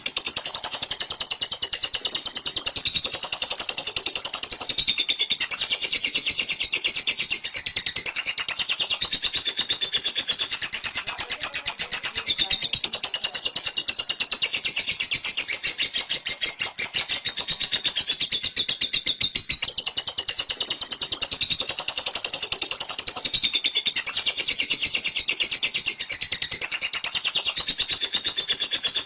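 Lovebird giving a long, unbroken 'ngekek' chatter: a high-pitched run of very fast chirps, its pitch wavering up and down.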